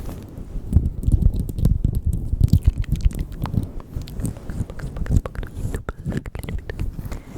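Close-microphone ASMR mouth sounds: rapid wet clicks and smacks over dense low thumping and rubbing right at the microphone.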